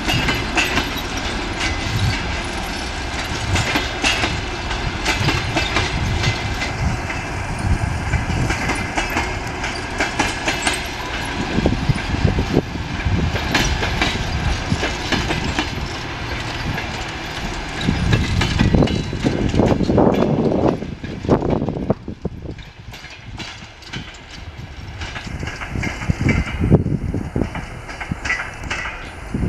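Passenger coaches of a locomotive-hauled train rolling past, their wheels clacking over the rail joints with a steady rattle. There is a louder stretch about twenty seconds in, after which the sound drops away as the last coach moves off.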